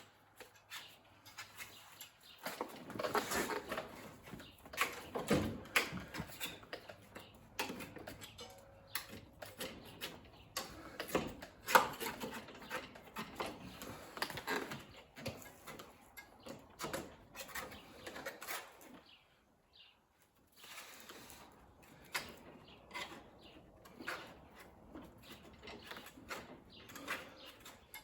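Irregular knocks, clicks and rustling, with a brief lull about two-thirds of the way through.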